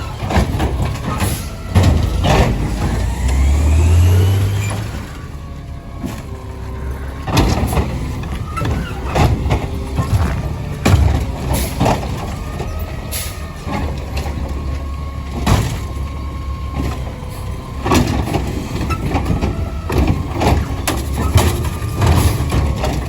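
Garbage truck running, with a series of sharp bangs as frozen recycling bins are slammed repeatedly to knock loose contents frozen inside. A louder engine surge comes a few seconds in.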